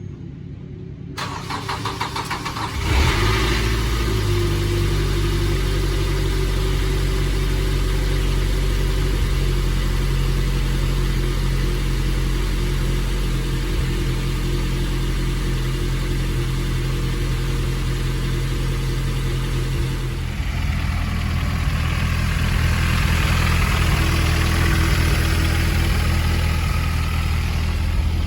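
Mazda NC Miata's four-cylinder engine, a 2.55 L high-compression build with BBR individual throttle bodies and race cams, cranking on the starter for a couple of seconds and firing up at about three seconds in. It then runs at a steady idle, with the open intake rasp of the throttle bodies, growing louder and harsher about twenty seconds in.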